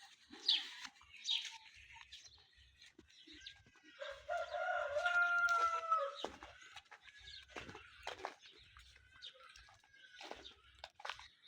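A rooster crowing once, a single long call about four seconds in that lasts around two seconds, with small birds chirping around it.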